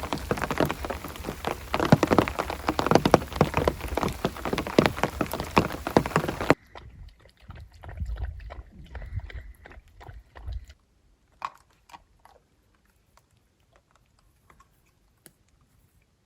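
Heavy rain falling and pattering on a surface, cutting off abruptly about six and a half seconds in. Faint scattered clicks and crackles follow and thin out to occasional ticks.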